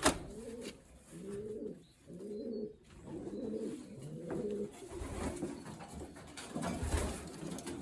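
Racing pigeons cooing, a run of low, wavering coos one after another, with a short sharp knock right at the start.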